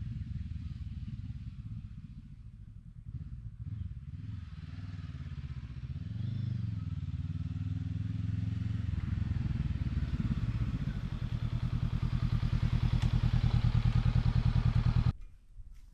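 Honda CB500X parallel-twin motorcycle engine running at low speed, with a brief rise and fall in revs about six seconds in, growing louder, then stopping abruptly near the end.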